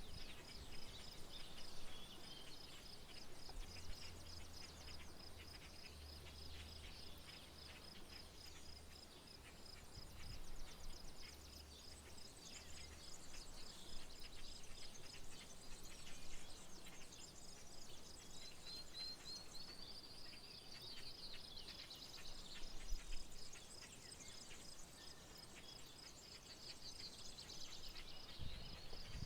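Rural outdoor soundscape of birds chirping and calling, over an insect's high, evenly pulsed chirp repeating a few times a second. A faint low hum runs for several seconds in the first half.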